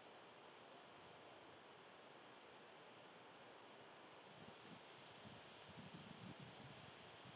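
Faint outdoor ambience with short, thin, very high bird call notes, a few early on, then repeating more often from about halfway in. Soft rustling and scratching sounds run underneath over the same stretch.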